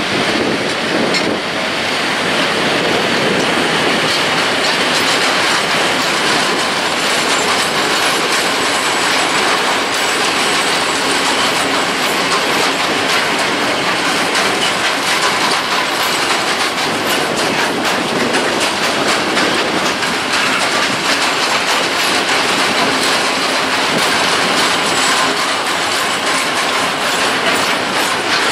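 Long freight train of covered hopper wagons, hauled by an ET41 electric locomotive, rolling past close by with a steady, loud rumble and the clickety-clack of wheels over the rail joints.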